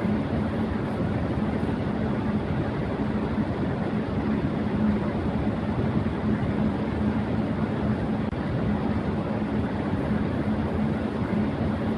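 Electric fan running at high speed: a steady rush of air with a low steady hum of the motor underneath.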